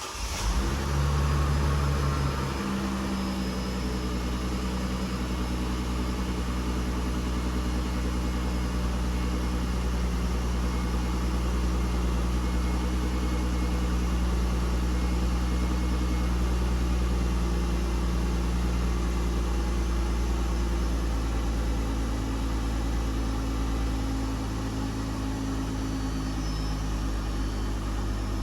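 2006 Mercedes C230 engine on a cold start. It catches and flares up in speed for the first couple of seconds, then settles into a steady, even high idle that eases down a little near the end.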